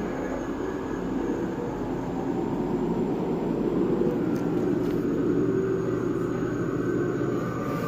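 A steady low rumbling drone with several held tones, from the attraction's ambient soundscape.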